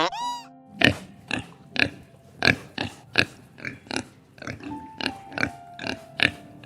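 Pig grunting: a quick run of short, rough grunts, about three a second.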